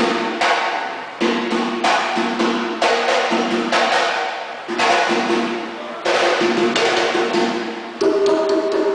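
A live band playing: sharp drum and cymbal hits roughly once a second over held chords.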